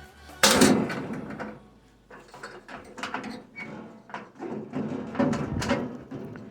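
Fireplace being taken apart by hand: a loud scrape about half a second in as a part is pulled free, then a run of smaller scrapes and knocks as pieces are slid and handled.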